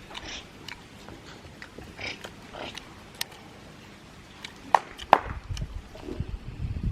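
Eating sounds: chewing and mouth noises with scattered small clicks, and two sharper clicks a little under five seconds in, about half a second apart.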